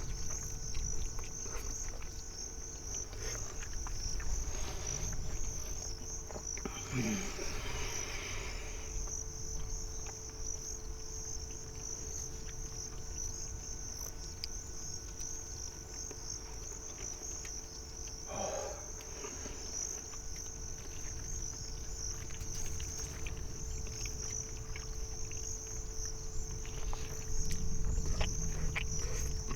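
Crickets chirring in one continuous, high-pitched trill, over a steady lower hum and low rumble. Two brief sounds interrupt, about seven seconds in and again near the middle.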